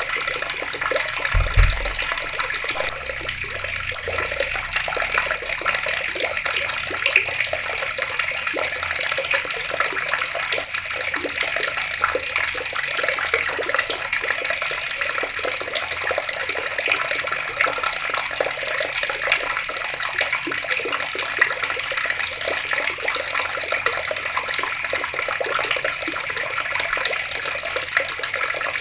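Water running steadily from a tap and splashing continuously. A brief low thump about a second and a half in.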